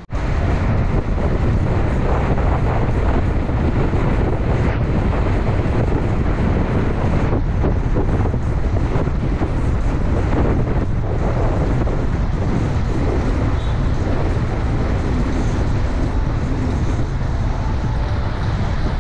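Heavy wind noise on the microphone: a loud, steady low rumble that starts abruptly with no pitched tone in it.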